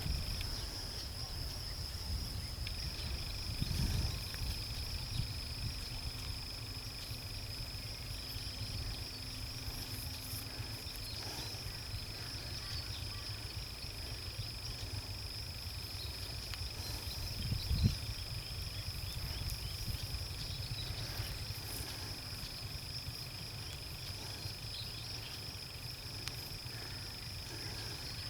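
Outdoor insects trilling steadily in a high, continuous drone over a low rumble, with two short low knocks, one about four seconds in and one near eighteen seconds.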